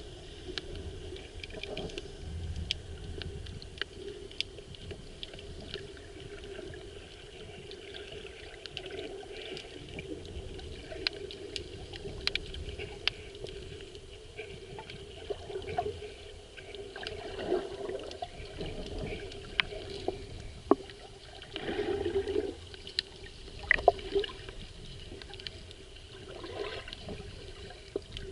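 Water heard underwater: a muffled wash of moving water with many small sharp clicks and crackles, and a few louder gurgling surges in the last third.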